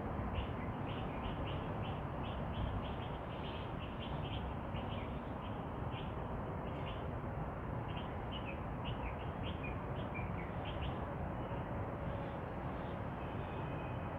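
Small birds chirping repeatedly in quick short notes, thinning out and stopping a few seconds before the end, over a steady low background rumble.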